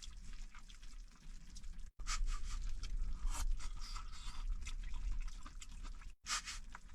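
Pork and cabbage cooking in a pot on a small stove, bubbling with many small crackles, plus light scraping of utensils against the pot.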